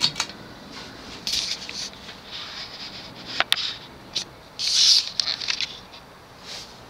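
Fasco Vanity Fair ceiling fan coasting down unpowered, under irregular short scraping or rustling sounds. A sharp click comes about three and a half seconds in.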